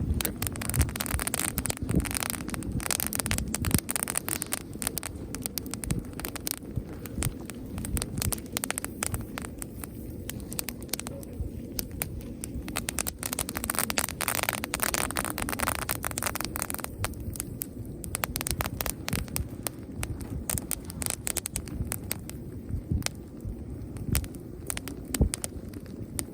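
Campfire burning dry leaves still on dead branches, crackling and popping with a dense run of sharp snaps over a steady low rumble.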